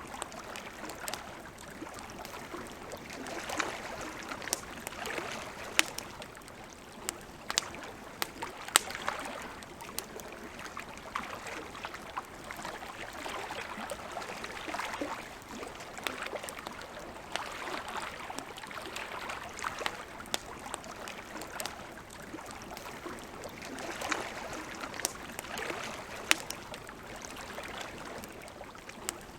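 Campfire crackling, with scattered sharp pops at irregular moments, over a soft, steady wash of lake water lapping that swells gently every few seconds.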